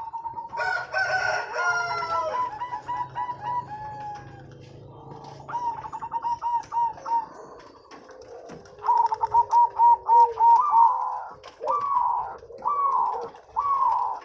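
Zebra doves (perkutut) cooing: rapid runs of short, clipped notes repeated in phrases, with another longer, fuller call over them in the first two seconds.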